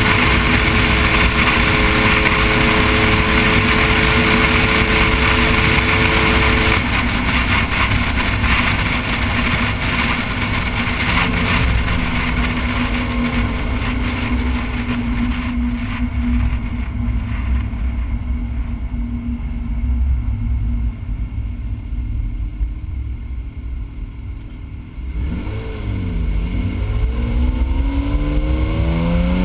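Noble M400's mid-mounted twin-turbo 3.0 L V6 engine heard from the rear deck: it runs at steady cruising revs, then eases off after several seconds and the car coasts with the engine quieter. Near the end the revs dip and then climb steadily as it accelerates again.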